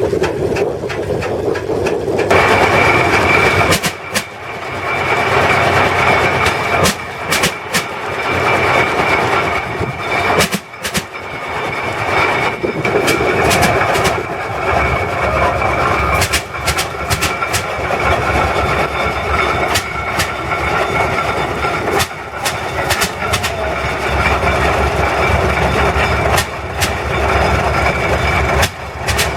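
Antique farm tractor engine running, with sharp cracks at irregular intervals. A steady high whine comes in about two seconds in.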